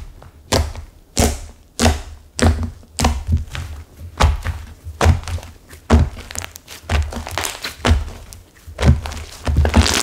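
Floral slime mixed with clay and gone stiff, being pressed and squished by hand. It gives repeated dull thunks, roughly one or two a second.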